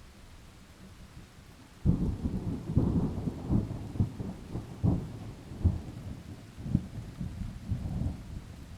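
Thunder over heavy rain: a sudden loud peal breaks in about two seconds in and rolls on for around six seconds as a crackling rumble made of many sharp cracks, then eases back to the steady rain.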